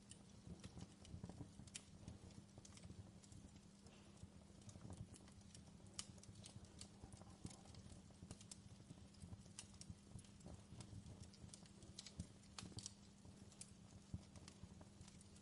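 Faint crackling of a wood fire: irregular small snaps and pops over a soft steady hiss and a low hum.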